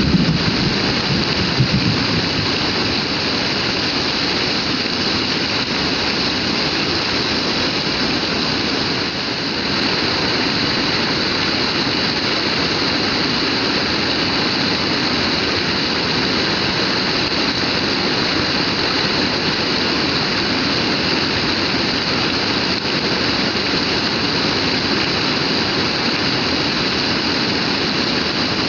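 Heavy rain pouring down in a steady, dense hiss, with a brief low rumble in the first two seconds.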